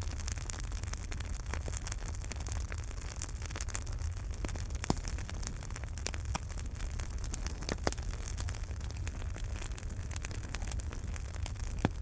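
Wood fire burning in a fireplace: a steady low rumble and hiss of flames with frequent crackles and a few louder pops, about 5 and 8 seconds in and near the end.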